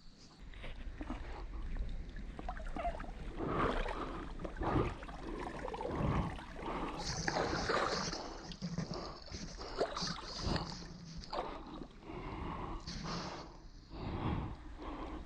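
Oars dipping and splashing as a small rowboat is rowed along, with water gurgling around the hull in irregular strokes.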